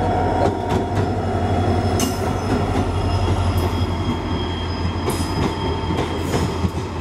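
An EMD WDP-4D diesel locomotive's two-stroke V16 engine drones low as it passes close by, fading about five seconds in. Its coaches follow, rolling past with wheels clicking over the rail joints and thin squealing tones.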